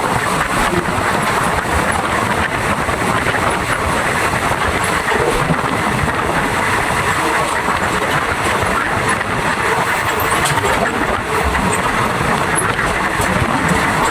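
Steady running noise of a moving passenger train: an even rush of wheels and air with no distinct clicks.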